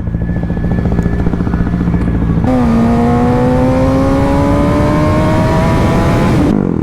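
Motorcycle engine running steadily. About two and a half seconds in, the throttle opens and the engine pulls hard, its pitch climbing smoothly for about four seconds before the throttle closes near the end.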